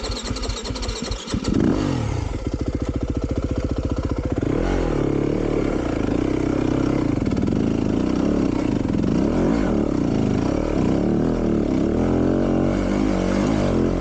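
Four-stroke enduro dirt bike engine on a steep rocky climb. It chugs at low revs for about the first second and a half, then runs harder, its pitch rising and falling with the throttle.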